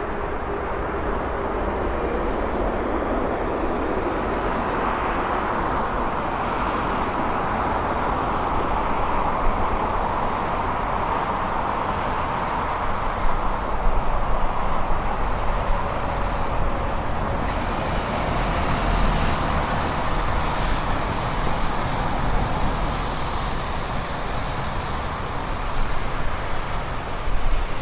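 Road traffic noise: vehicles driving past on a city street with a steady low rumble, and one passes louder and hissier about two-thirds of the way through.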